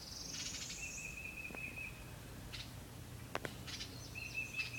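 Small nesting birds calling: a high buzzy trill right at the start, a steady trilled note heard twice, and a few sharp clicks about three and a half seconds in.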